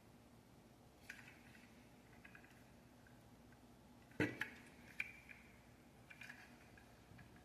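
Small plastic Lego pieces clicking and clattering as they are handled: a few scattered light clicks, with one louder knock about four seconds in.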